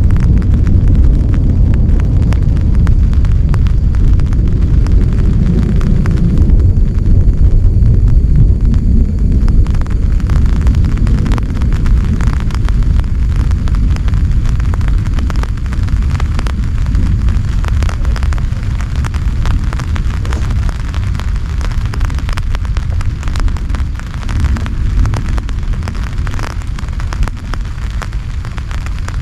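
Heavy rain pouring down with a loud, deep rumble under it, and a dense patter of sharp drop hits that stands out more from about a third of the way in.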